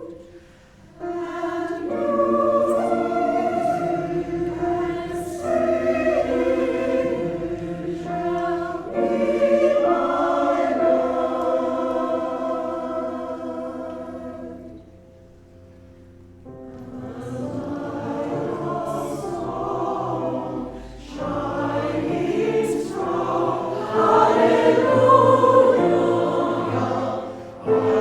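Choir singing a choral anthem in several voice parts, with a pause of about a second and a half partway through before the voices come back in.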